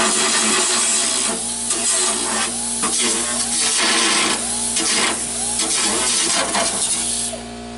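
Handheld power tool working a sheet-steel door reinforcement plate, running with brief dips a few times, over a steady hum.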